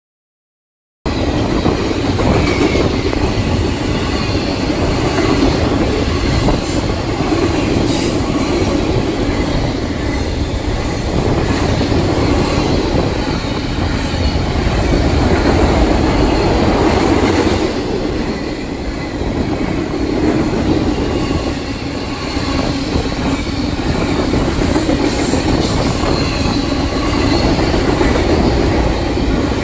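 Double-stack container cars of a Union Pacific intermodal freight train rolling past at speed: a steady rumble and rattle of steel wheels on the rails. The sound cuts in about a second in.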